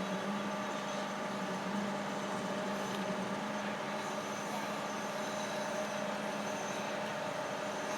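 Zoomlion 37 m truck-mounted concrete pump running steadily, its engine humming at constant speed with no strokes or knocks standing out.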